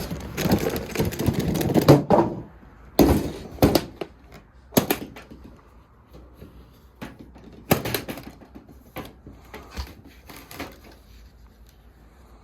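A cardboard box and its packing being handled and unpacked: a dense rustling for the first two seconds, then a scatter of sharp knocks and clacks as the contents are lifted out and set down.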